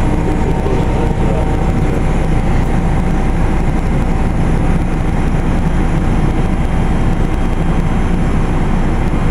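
Carrier Infinity GreenSpeed 25VNA inverter heat pump's outdoor unit starting up in cool mode, a steady loud rumble with a thin whine over it that fades out near the end. It sounds as if something is wrong, but this rough start-up sound is normal for this unit and it gets quieter once it is running.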